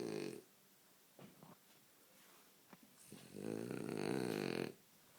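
French bulldog snoring: the end of one snore at the start, a few small snorts, then one long loud snore from about three seconds in, lasting about a second and a half.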